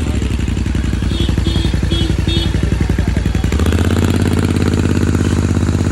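Royal Enfield Continental GT 650's parallel-twin engine idling through an aftermarket RRP exhaust with wrapped headers. It runs steadily, and its note grows fuller and louder about three and a half seconds in.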